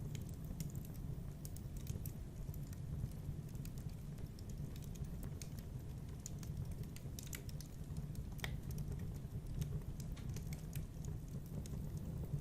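Wood fire burning in a fireplace: a steady low rumble of flames with irregular small crackles and pops scattered throughout.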